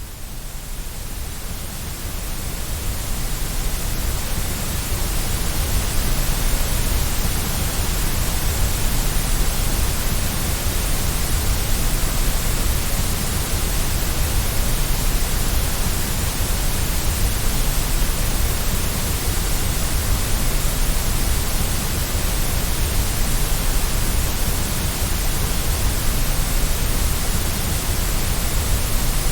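Generated white noise for baby sleep: an even, steady hiss spread across low and high pitches alike, fading up over the first few seconds and then holding level.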